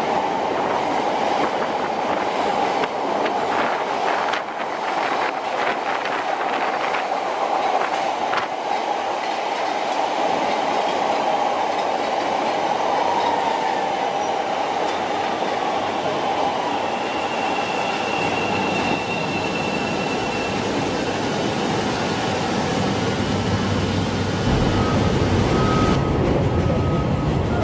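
Chicago "L" rapid-transit train running on its tracks: a steady whine with wheel squeal and a run of clicks over rail joints, then a deeper rumble that grows over the last third.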